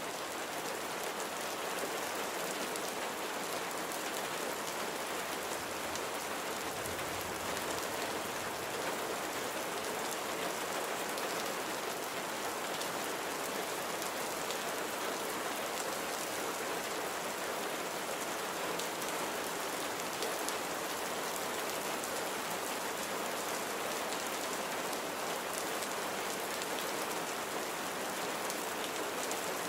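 Steady rain falling: an even hiss with fine patter of individual drops.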